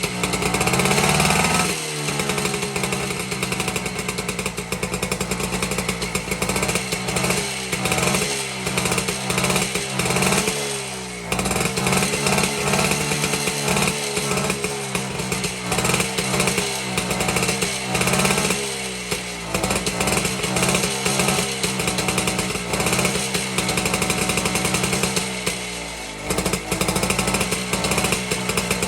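BSA D1 Bantam's 123 cc two-stroke single-cylinder engine running after more than two years standing, with the throttle blipped over and over so the revs rise and fall every second or two. The revs drop sharply about two seconds in and again near the end, then pick up.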